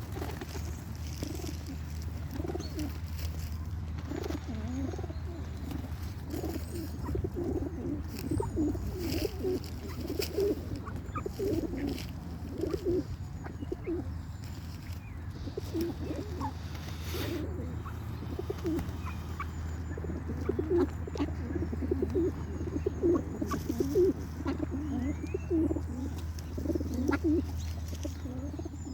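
Several birds giving many short, low calls that overlap one another throughout, with a few faint high chirps above them. A steady low hum runs underneath.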